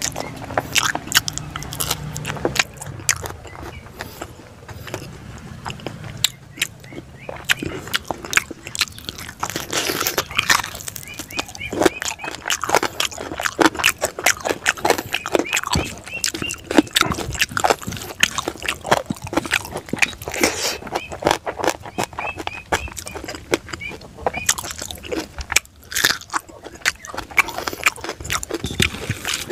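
Close-up eating sounds: a man chewing mouthfuls of rice with pork and fish, with many irregular wet mouth clicks and smacks, and his fingers scooping rice from a steel plate.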